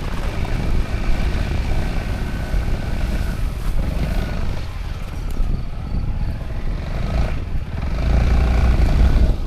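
Honda ADV350 maxi scooter under way: its single-cylinder engine running with a dense low rumble of wind and road noise. The sound swells about eight seconds in, then falls away at the end.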